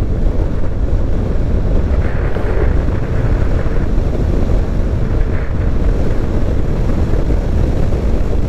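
Steady wind rush buffeting the microphone of a motorcycle moving at road speed, with the bike's running and road noise underneath.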